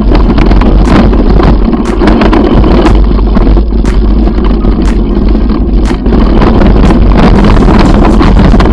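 Heavy wind buffeting on the microphone of a bicycle-mounted or handheld camera on a fast downhill ride, with frequent knocks and rattles from the bike jolting over the rough trail.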